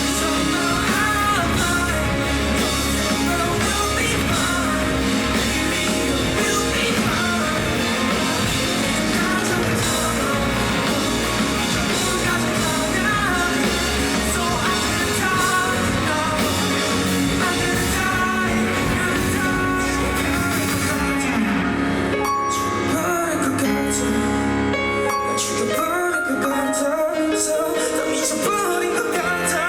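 Live rock band playing with a singer. About twenty-one seconds in, the cymbal wash drops away and the accompaniment thins to a sparser passage.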